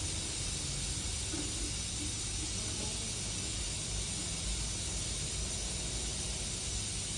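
Steady hiss with a low rumble beneath, unchanging throughout.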